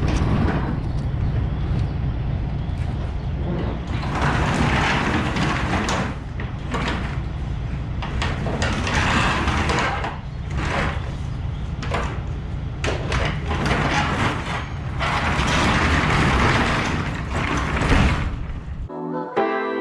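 Semi-truck's diesel engine idling with a steady low hum, with knocks and clatter and several long bursts of rushing noise over it. The sound cuts off near the end and music begins.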